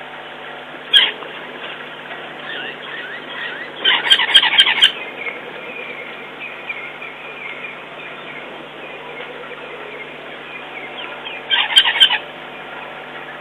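Loud, harsh bird calls in three bouts: one short call about a second in, a run of several calls around four to five seconds, and another short run near the end. Fainter chirps from other birds sound between them.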